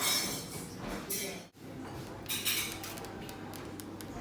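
Background clatter of dishes and cutlery: bursts of hiss and a run of light clinks and clicks.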